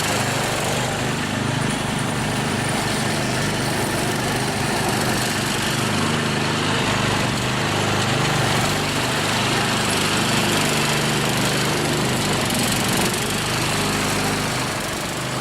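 Small single-cylinder-type gasoline engine of a modified lawn tractor running steadily while the tractor is driven, easing off slightly near the end.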